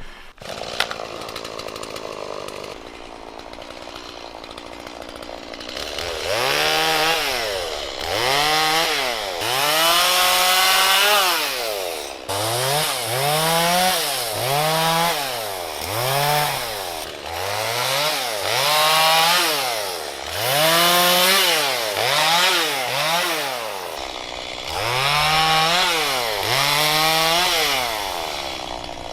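Two-stroke chainsaw cutting wood. For the first few seconds it runs at a lower, steady speed; from about six seconds in, its engine note rises and falls about once a second as the chain bites into the wood and frees.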